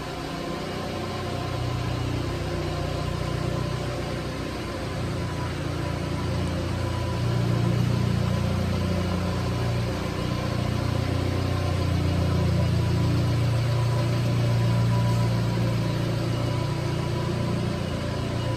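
1999 Subaru Sambar kei truck's small four-cylinder engine running at a steady low speed, its note rising slightly a couple of times.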